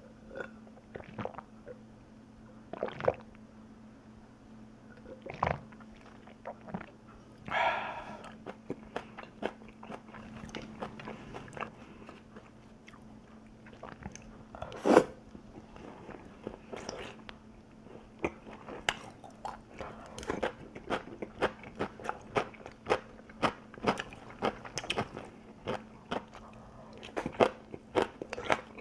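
Close-miked chewing and biting of crunchy food, a run of sharp crunches that comes thicker in the second half, over a faint steady hum.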